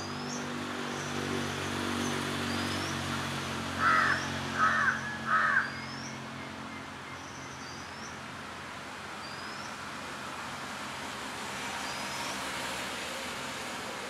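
Garden birdsong: three loud, harsh calls from one bird about four seconds in, over a thin, rising chirp from another bird repeated roughly once a second. A low steady hum underneath fades out before the middle.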